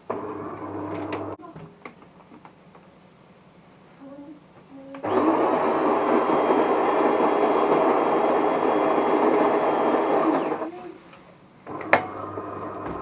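A De'Longhi ESAM1000SJ fully automatic espresso machine running through a cycle. A short hum at the start is followed by its bean grinder running steadily for about five and a half seconds, with a thin high whine. The motor hum starts again near the end.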